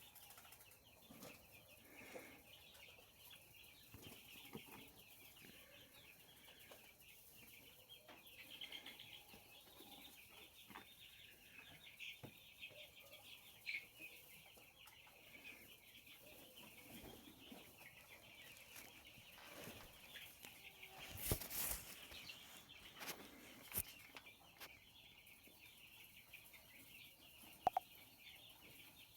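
A flock of 20-day-old semi-desi chicks peeping continuously in a faint, high, chattering chorus. A short rustling burst comes about two-thirds of the way in.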